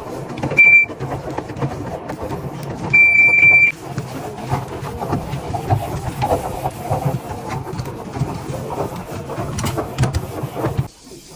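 Electronic beeps from a Haier washing machine's control panel: one short beep, then a longer one about three seconds in. They sound over a steady low rumble with scattered knocks and clatter, which quietens near the end.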